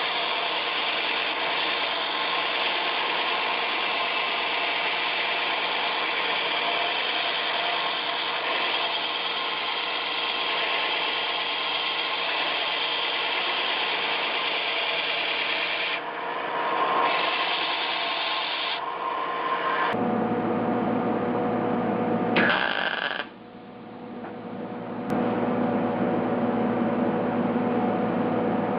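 Sheet-metal patch panel being ground to shape, a steady rough rasping noise. About twenty seconds in, the sound changes to a steady machine hum, with a brief drop in level a few seconds later.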